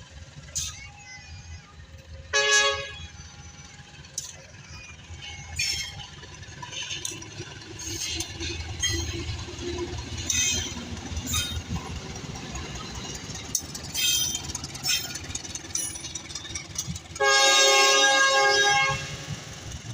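Diesel train horn giving a short toot, then a long blast near the end, over the low rumble of a train moving through the station with scattered clicks and clanks.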